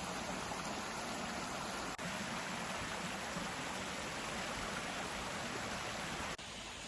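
Steady rushing of a river or waterfall. It breaks off for an instant about two seconds in, and again near the end, after which it runs on more quietly.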